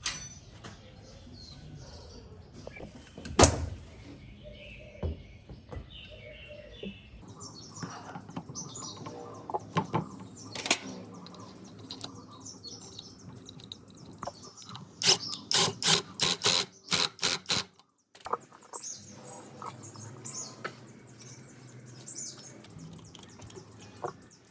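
Scattered sharp taps and knocks, with one heavy knock a few seconds in and a quick run of about eight strikes, roughly four a second, near the middle. Birds chirp faintly in the background.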